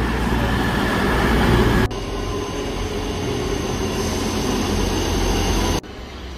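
Diesel trains at a station, in three abruptly cut pieces: a CrossCountry Voyager diesel unit passing close, then a Class 158 diesel unit running at the platform with a low engine hum and a steady high whine, and near the end quieter platform sound with a train approaching in the distance.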